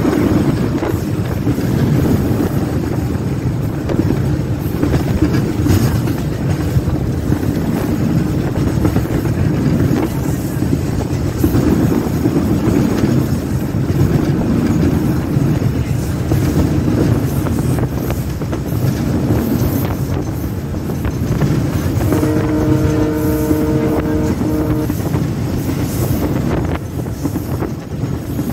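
Bangladesh Railway 6500 series diesel-electric locomotive running at speed, heard from the cab window as a loud, steady rumble of engine and rail noise. About 22 seconds in, its horn gives one steady chord-like blast lasting about three seconds.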